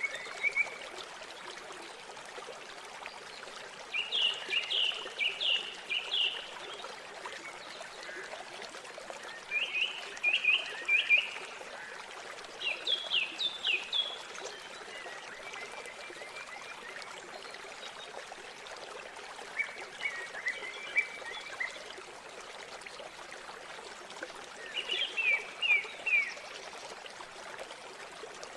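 River water flowing steadily, with a small songbird singing short phrases of quick, falling notes every few seconds, about six times.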